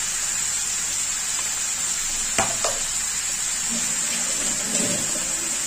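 Mixed vegetables sizzling steadily in hot mustard oil in a kadhai, with two light clicks about two and a half seconds in.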